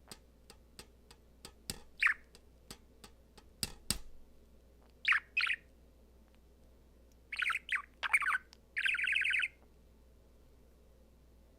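Male budgerigar chirping and warbling in short bursts, with a longer fluttering warble about nine seconds in. A run of sharp clicks fills the first four seconds.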